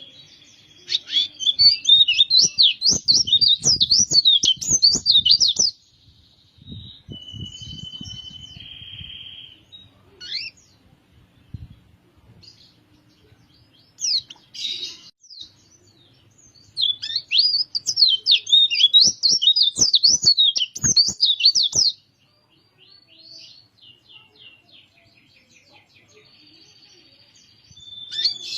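White-eye (pleci) singing: two long, fast, warbling twittering phrases of about five seconds each, with a short steady whistle and scattered single chirps between them.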